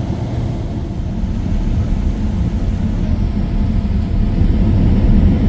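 Steady low rumble inside the cabin of a Boeing 777-300 airliner, growing gradually louder.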